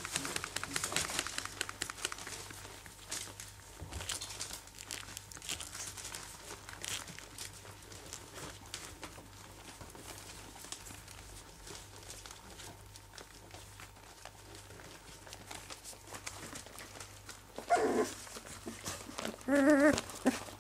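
English Cocker Spaniel puppies shuffling about on crinkly bedding, with many small rustles and scratches. About three seconds before the end one puppy gives a short sharp cry, and just before the end a brief wavering whine.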